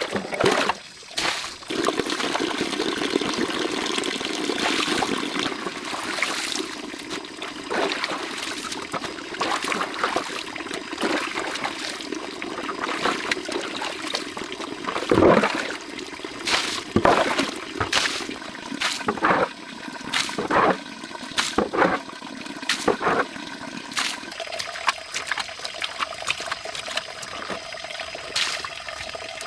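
Water running and splashing, with scattered knocks.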